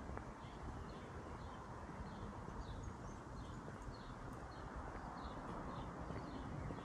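A bird chirping over and over, short high calls about twice a second, over a faint low outdoor rumble.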